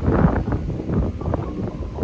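Wind buffeting the microphone: a loud, gusty rumble that starts suddenly and keeps surging unevenly.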